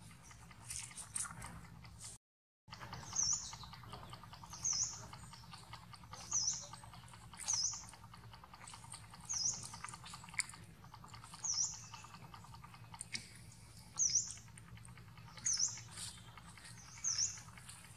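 A bird repeating a short, high, down-and-up chirp about every one and a half seconds, starting about three seconds in. A brief dropout to silence comes shortly before the calls begin.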